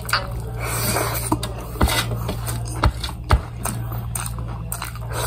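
Close-up eating sounds of a person chewing mouthfuls of tuna burrito, with nasal breathing, short clicks and scrapes as fingers pick food from a plastic container, over a steady low hum.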